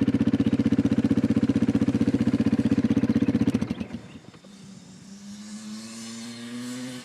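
Dirt bike engine running loud and close with a fast, even firing beat. After nearly four seconds it drops away, and a quieter engine is heard with its pitch rising slowly.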